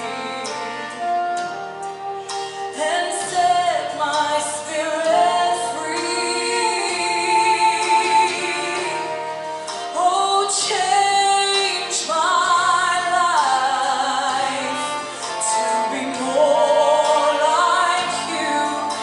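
Gospel worship music: a woman singing long held notes with vibrato, over instrumental backing.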